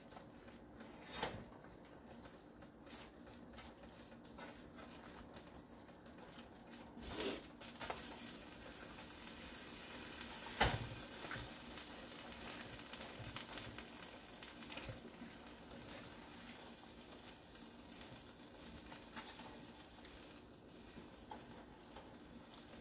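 Food sizzling faintly in a pan on the stove, with a steady low hum underneath. A few sharp knocks, like utensils on cookware, are scattered through it; the loudest comes about halfway through.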